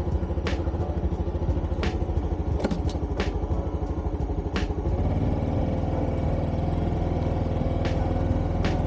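Small motorcycle engine running steadily under way, its note firming up and holding more evenly about five seconds in, with sharp clicks every second or so.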